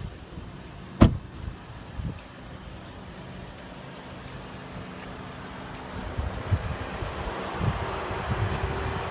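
Audi A3's 1.8-litre TFSI turbocharged four-cylinder engine idling steadily, with one sharp click about a second in. The engine sound grows louder and rumblier over the last few seconds.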